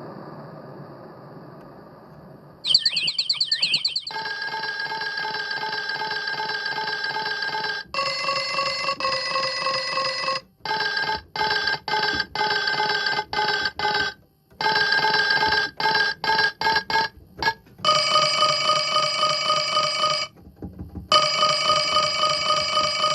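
Electronic ringtone-style tones cycling through different timbres. A fast warbling trill comes first, then steady held tones and stretches of rapidly pulsed notes, with the tone colour and pitch changing every few seconds.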